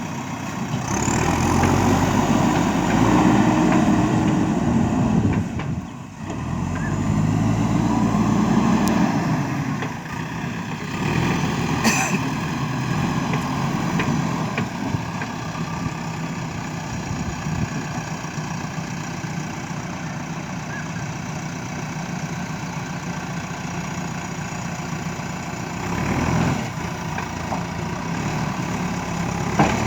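Diesel engine of a JCB 3DX backhoe loader running under load, surging louder twice in the first ten seconds as the hydraulics work, then settling to a steadier idle. A brief sharp knock comes about twelve seconds in.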